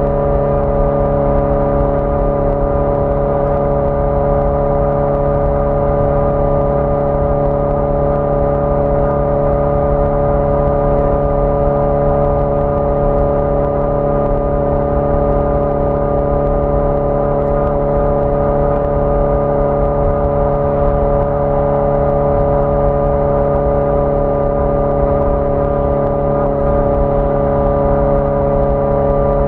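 1981 Yamaha XJ650 Maxim's air-cooled inline-four engine running at a steady speed while the motorcycle cruises, its pitch holding nearly constant, with road and wind rumble underneath.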